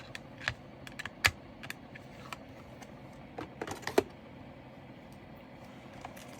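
Scattered small plastic clicks and taps from handling diamond painting drills and their containers, with a quick cluster of clicks about three and a half to four seconds in.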